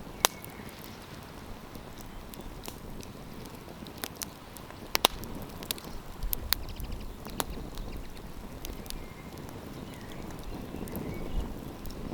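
Wood campfire crackling, with sharp pops at irregular intervals, the loudest about a quarter second in and about five seconds in, over a low steady rush of flame and wind.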